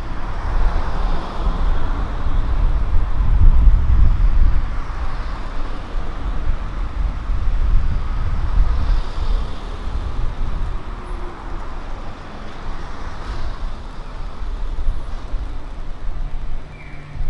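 Street traffic: a vehicle passes with a heavy low rumble over the first few seconds, then the traffic noise settles to a lower, steady level.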